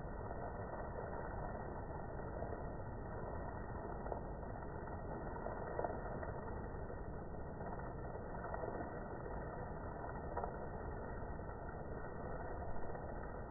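Steady rain of large drops falling, with a few louder single drop hits standing out now and then.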